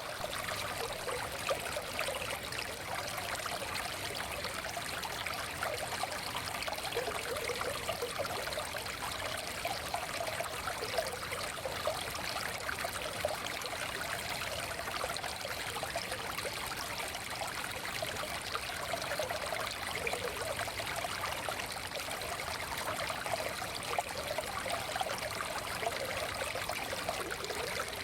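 Forest stream flowing steadily: an even, fairly high rush of water with little low rumble.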